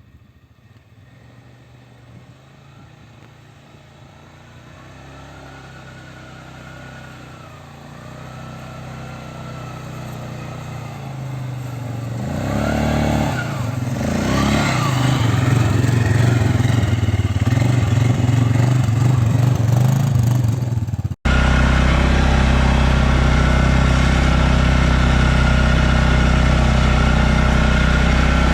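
Stels Leopard 650 quad bike's engine running as the ATV drives through snow. It grows steadily louder over the first fifteen seconds or so, with the revs rising and falling. About 21 seconds in, the sound cuts abruptly to a steady, louder engine drone.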